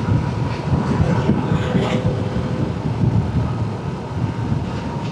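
Motorcycle engine running steadily at riding speed with wind rushing over the microphone, a faint steady whine over the engine note.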